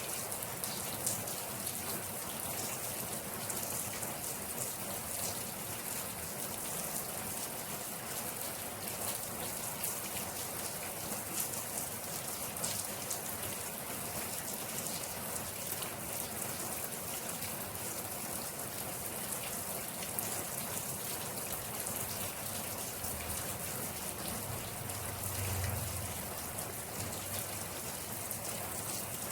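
Steady rainfall, individual drops heard as many fine ticks over a continuous hiss. A brief low rumble swells and fades near the end.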